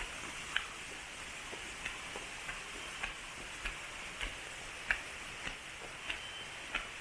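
Footsteps walking along a trail at a steady pace, about one and a half steps a second, each a short sharp click, over a steady background hiss.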